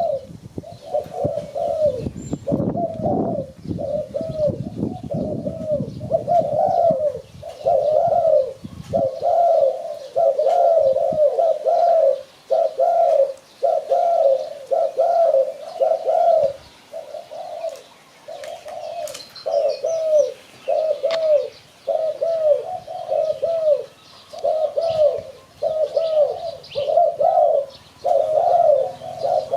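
Spotted dove cooing, a long string of short coos repeated about once a second, with a low rumble under the first few seconds.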